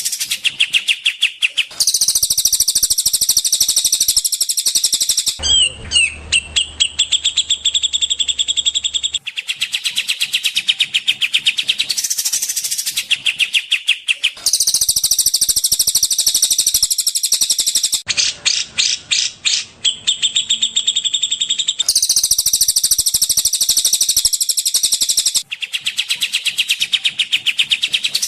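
Spliced recordings of songbirds singing: rapid, high chattering trills alternate with whistled phrases and a few falling whistles, switching abruptly from clip to clip every few seconds.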